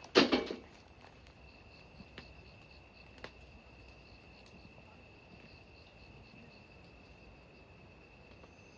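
A single loud thump, then a faint, steady, high-pitched insect trill, like a cricket's, with a few small clicks.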